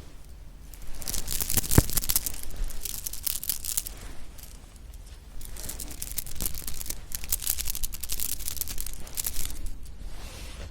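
Close-miked sticky tearing and crackling of a tough, chewy marshmallow pop being bitten and pulled apart, in two long stretches with a sharp click about two seconds in.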